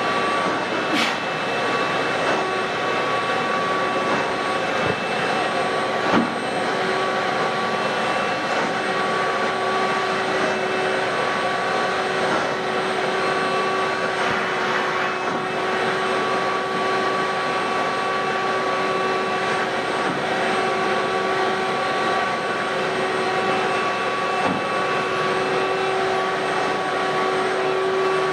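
Ridgid WD1450 wet/dry shop vacuum running steadily on carpet, a high motor whine over the rush of air, with a few brief clicks as bits are picked up.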